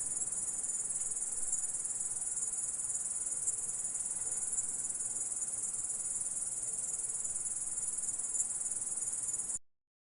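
Grasshopper or cricket stridulating in a continuous high-pitched trill that cuts off suddenly near the end.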